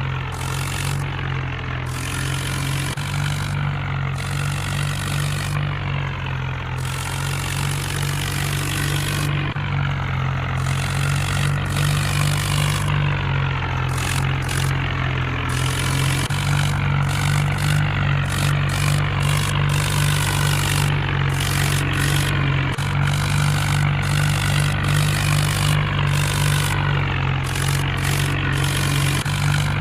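Mahindra tractor's diesel engine running steadily, powering a wheat thresher, with slight shifts in engine pitch every few seconds.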